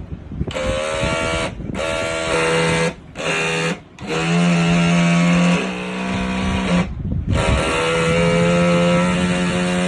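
Toy RC rescue boat's small electric motor whining at a steady pitch, switched on and off in five runs with short gaps between; in the fourth run the pitch steps up briefly and then drops back.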